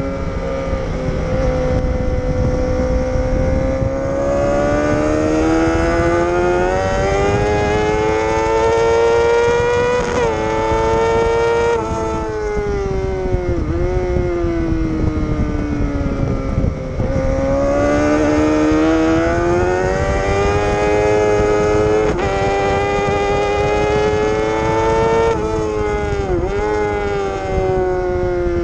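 Sportbike engine heard from on board at track speed, its note rising slowly under acceleration and falling off for corners, with short sharp breaks in pitch at gear changes. A steady wind rush runs underneath.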